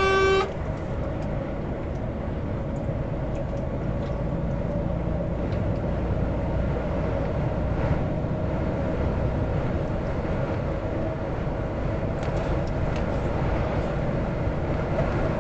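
Steady engine and road rumble heard inside a moving truck's cab. A steady horn tone cuts off about half a second in.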